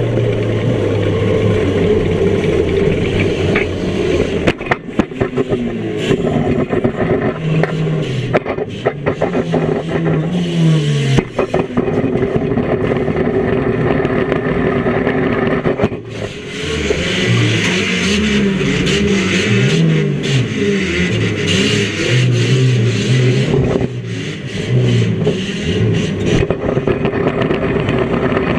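Heard from inside the cabin, a micro banger's engine revving up and down over and over, with sharp metal knocks and scraping from car-to-car hits, most of them between about 4 and 11 seconds in.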